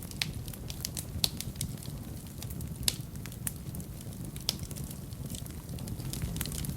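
Wood fire burning in a fireplace: a steady low rumble of flames with irregular crackles and sharp pops of burning logs, the loudest pops about one, three and four and a half seconds in.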